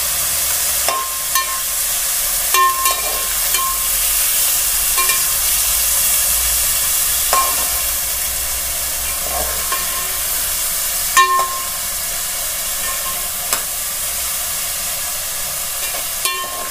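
Green peas, fried onions and whole spices sizzling in hot oil in a metal pot, a steady hiss. A slotted metal spoon clinks against the pot now and then as they are stirred, the loudest clink about eleven seconds in.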